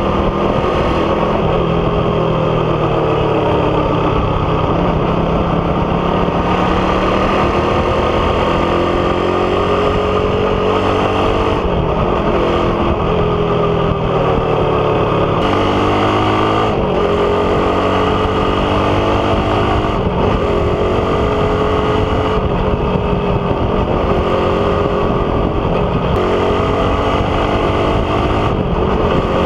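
Suzuki Raider 150's single-cylinder four-stroke engine through a big-elbow exhaust with the catalytic converter removed, running loud under way. Its pitch keeps climbing and falling, with a few sudden drops, as it revs up and eases off.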